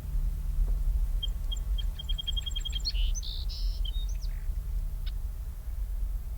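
A songbird sings one song: a run of clear high notes that speeds up, ending in a short jumble of fuller notes, with a single faint note a little later. A steady low rumble runs underneath.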